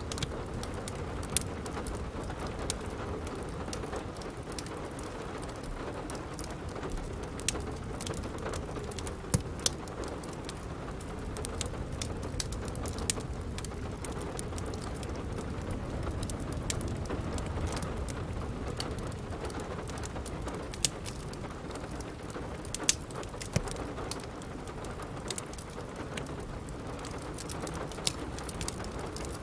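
Steady rain, with a crackling wood fire in a fireplace: scattered sharp pops and crackles come at irregular moments over the rain.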